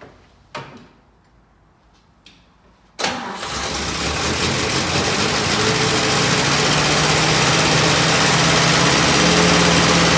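Jeep M170's four-cylinder engine starting abruptly about three seconds in and settling into a steady run, after a couple of light knocks.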